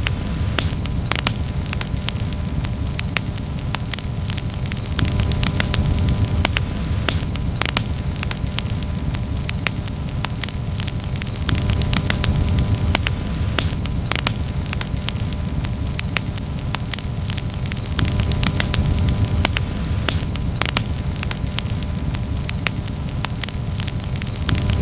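Campfire burning and crackling: many sharp, irregular pops and snaps over a steady low rumble from the flames.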